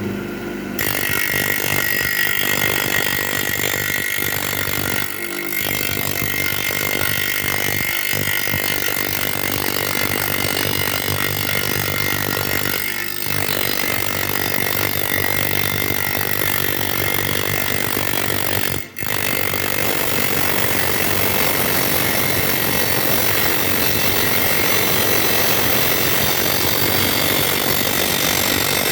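Handheld power grinder shaping brick, running steadily with a constant whine, its cutting broken by three brief dips.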